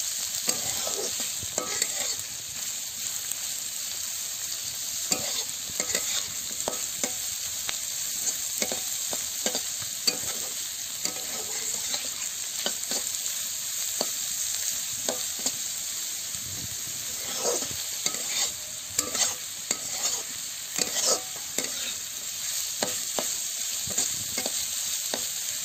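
Sliced onions, garlic and green chillies sizzling in hot oil in a kadai, stirred with a spatula that scrapes and knocks the pan in frequent strokes. The stirring gets busier in the last third.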